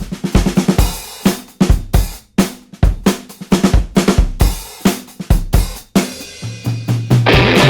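Background music: a drum kit playing a fast rock beat of snare, bass drum and cymbals, with a low held bass note coming in near the end.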